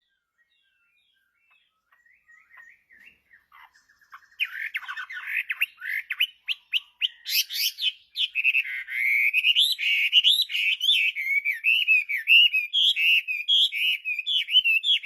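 Chinese hwamei (melodious laughingthrush) singing. A few faint chirps come first, then from about four seconds in a loud, unbroken run of quick rising and falling notes.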